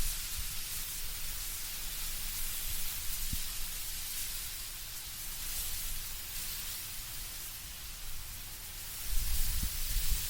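Wind blowing through autumn trees, a steady hiss of rustling leaves that swells and eases. A low rumble rises near the end.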